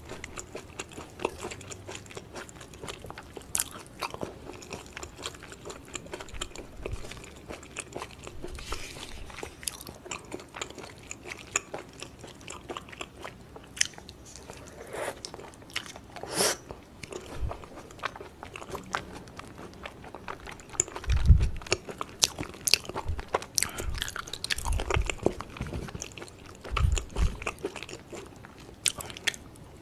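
Close-miked chewing and wet mouth sounds of someone eating raw beef tartare, with many short clicks and smacks. A few dull low thumps come in the second half.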